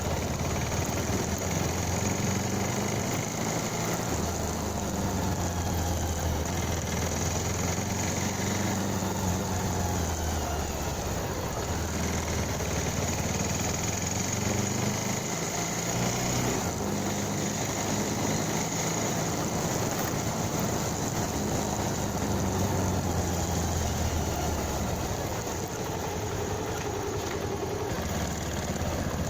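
Motorcycle engine running, its note rising and falling in pitch as the throttle changes.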